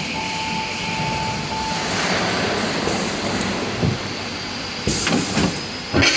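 Automatic seam welder welding stainless steel: a steady hiss from the welding arc with a high whine that stops about two seconds in, then a few knocks, the loudest at the very end.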